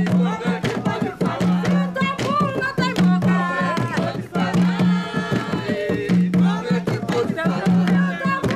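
Jongo: voices singing a song line over hand drums beaten in a steady rhythm, with a deep drum note sounding about once a second.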